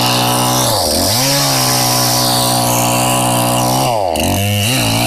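Chainsaw running at steady high revs, its engine note dropping sharply and recovering twice, about a second in and again around four seconds, as the chain bogs in the wood.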